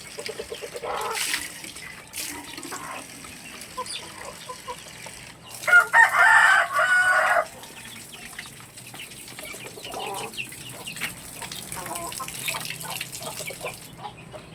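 Chickens clucking, with a rooster crowing once about six seconds in, the loudest sound.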